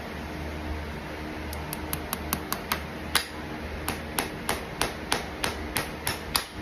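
Farrier's hammer tapping in quick, light, even strikes, about three a second, starting about a second and a half in, as a horseshoe is nailed or shaped.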